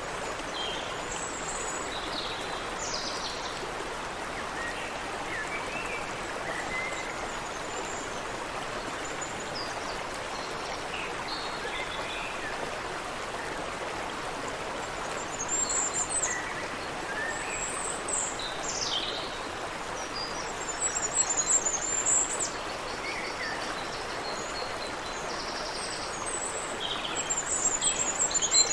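Steady rush of a creek flowing over rocks, with birds chirping and calling in short, scattered phrases. The bird calls come more often in the second half.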